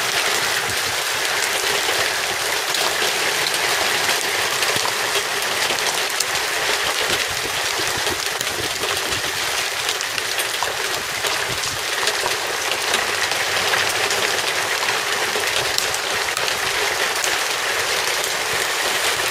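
Heavy hailstorm downpour: a dense, steady patter of countless small impacts of rain and hail, keeping an even level throughout.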